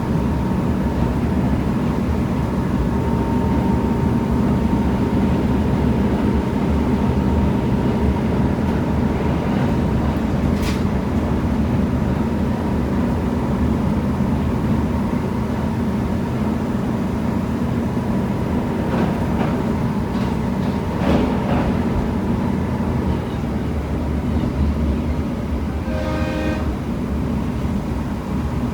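KiHa 75 diesel railcar underway, heard from inside the car: a steady drone of the diesel engine and running gear. A short horn-like tone sounds near the end.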